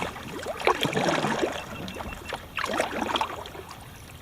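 Kayak paddle strokes splashing in river water, one about every two seconds.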